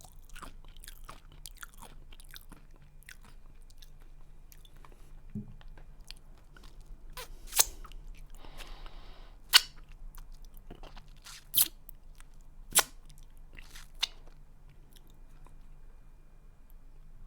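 A person chewing a crunchy snack close to the microphone: steady small crackling crunches, with five sharp, loud cracks in the second half as pieces break between the teeth.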